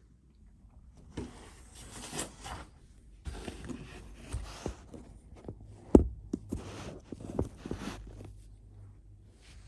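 Rustling and scuffling in several stretches a second or so long, with scattered sharp knocks; the loudest knock comes about six seconds in.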